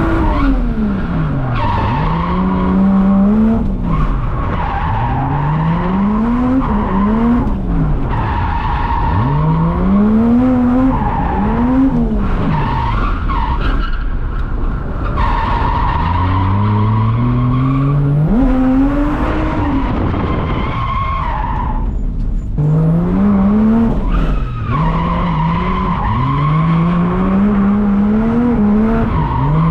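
Drift car being driven sideways: the engine revs up and drops back over and over as the driver works the throttle, while the tyres squeal in long, steady squeals that break off briefly a few times.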